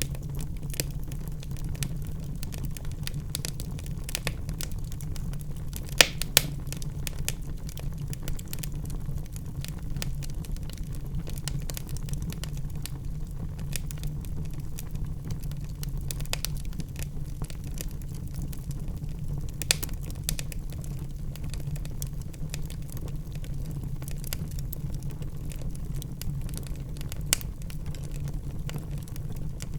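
Wood fire burning in a fireplace, crackling: a steady low rumble of flames under constant small crackles, with a few sharper pops, two close together about six seconds in.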